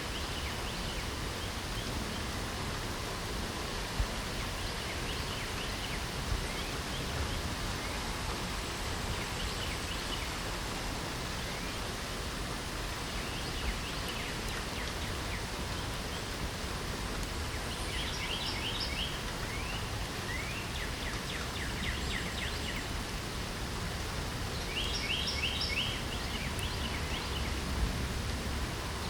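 Steady rain hiss with songbirds chirping over it; short bursts of rapid chirps come several times, most in the second half and near the end.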